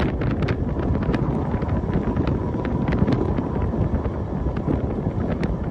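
Train running along the track: a steady low rumble with many sharp clicks and ticks scattered through it, and a faint thin tone held through the middle.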